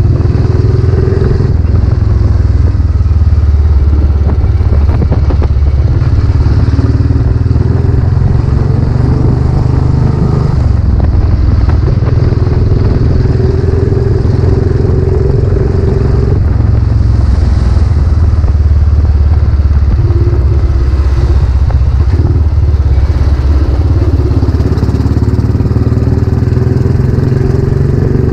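Royal Enfield Classic 500's single-cylinder engine running under way through a newly fitted aftermarket silencer, a deep, steady exhaust note that shifts in pitch a few times as the riding speed changes.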